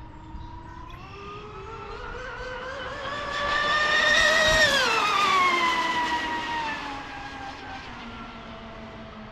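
Fast electric RC catamaran whining as it speeds past. The pitch climbs and grows louder as the boat approaches, peaks about four and a half seconds in, then drops away as it passes and recedes.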